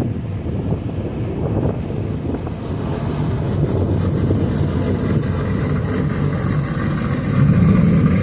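Pickup truck engine and exhaust rumbling as the truck drives past, swelling louder near the end as it is revved.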